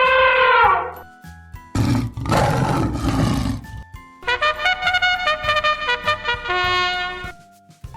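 A held, pitched tone fading and dropping in pitch in the first second. Then a lion roaring for about two seconds. Then a short melody of held notes stepping lower.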